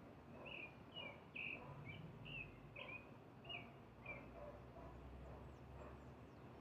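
A bird singing faintly: a run of about eight short slurred chirps, roughly two a second, that stops about four seconds in, over a low background rumble.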